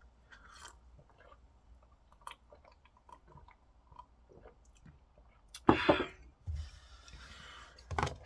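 A person chewing Neoguri instant ramen noodles close to the microphone: soft wet mouth clicks, then a few louder short eating noises in the last few seconds.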